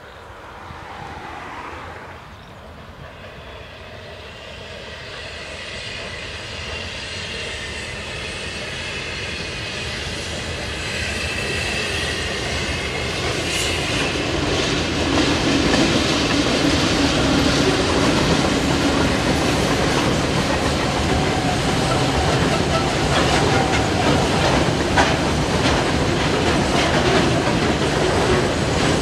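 Two TasRail TR-class diesel locomotives hauling a coal train approach, their engines growing steadily louder. From about halfway the coal wagons roll past with a steady clickety-clack of wheels over the rail joints.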